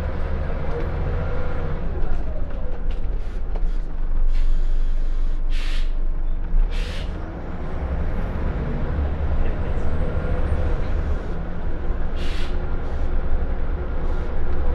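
Inside a Scania L94UB Wright Solar single-deck bus: the diesel engine and drivetrain running steadily, their pitch dropping about two seconds in and climbing again later as the bus slows and pulls away. Several short hisses of air from the air brakes break in around the middle and once near the end.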